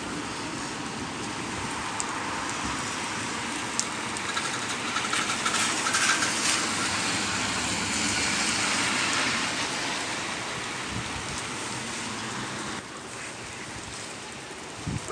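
Steady rain falling, with a hiss that swells louder about four seconds in and eases off after about ten seconds.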